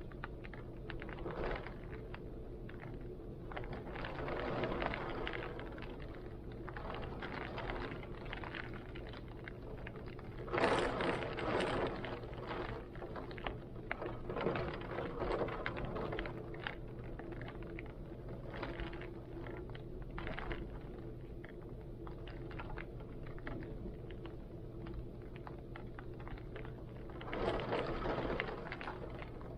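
Heavy rain falling in strong wind, with gusts swelling louder several times, most strongly about ten seconds in and again near the end, over a steady low hum.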